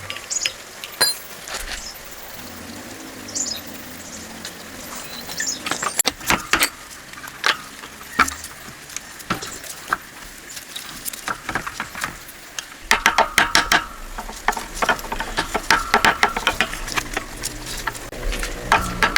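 Scattered metal clicks and knocks of parts being handled, then about 13 seconds in a small tractor engine starts running with a fast, even knocking beat.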